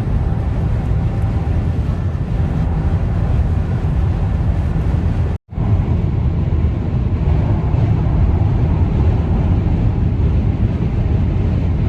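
Steady low rumble of road and engine noise inside a moving car, broken by a brief gap about five seconds in.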